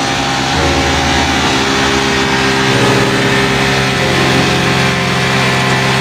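Motorcycle engine running steadily while powering a wheat thresher, its pitch shifting slightly a couple of times.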